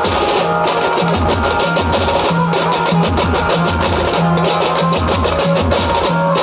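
Loud amplified music from a Maharashtrian banjo band: a plucked-string banjo melody over a steady, driving drum beat, played through a DJ sound system.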